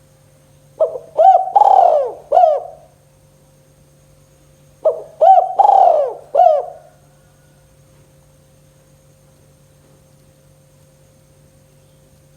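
Spotted dove (tekukur) cooing: two phrases of four or five coos each, about four seconds apart. After the second phrase only a faint steady hum remains.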